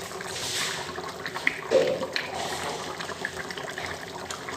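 A spoon stirring a watery chicken curry in a pot, with liquid sloshing and small scrapes and clicks against the pot, and one louder knock a little before halfway.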